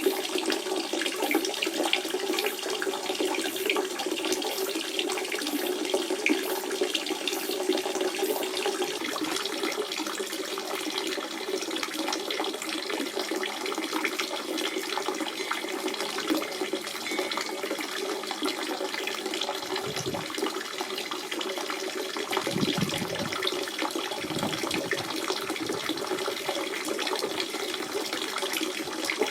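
Natural spring water running in a steady, continuous flow, with a few lower-pitched gurgles about two-thirds of the way through.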